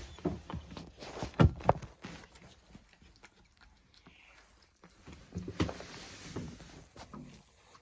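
A cat being fed and starting on its food: two sharp knocks about a second and a half in, then scattered clicks and soft rustling a few seconds later as it begins to eat.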